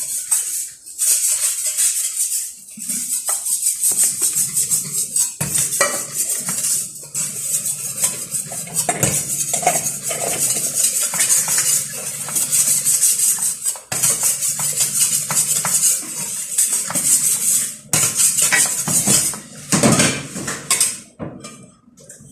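Metal utensils clinking and scraping against a cooking pot, over a steady high hiss that cuts in and out.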